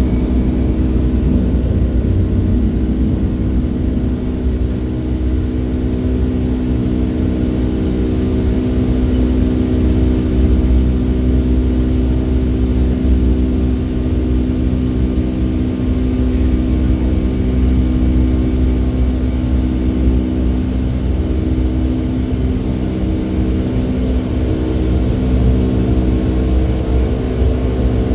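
Boeing 757 twin jet engines heard from inside the passenger cabin: a loud, steady drone of even tones over a low rumble, at constant thrust.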